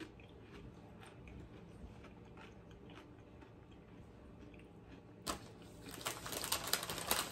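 Quiet chewing of food for about five seconds, then a sharp click and a crinkly rustle near the end as a bag of potato chips is handled.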